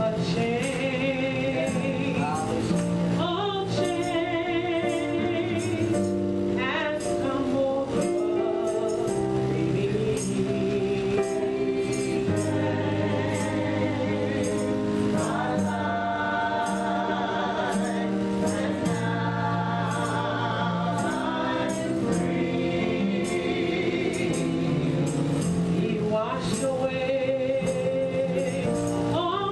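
Gospel choir singing with instrumental accompaniment and a steady beat of about two strokes a second.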